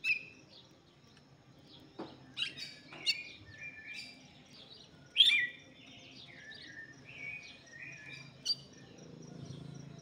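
Songbirds chirping: a scattering of short, high chirps, the loudest about five seconds in.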